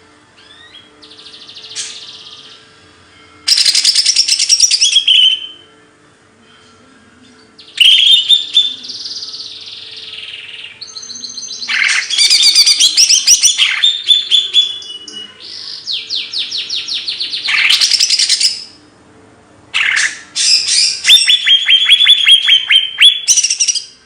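Songbird singing loud phrases of fast trills and chirps, each a few seconds long, with short pauses between them.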